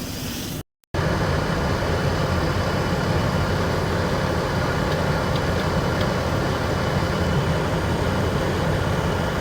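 Steady low rumble of a large vehicle engine running, starting after a brief drop to silence just under a second in.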